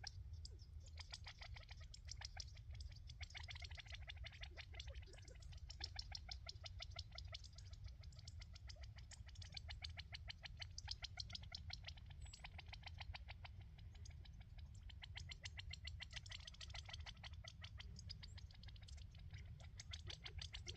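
California quail giving faint, rapid, overlapping clicking calls, many a second and without a break, over a low rumble.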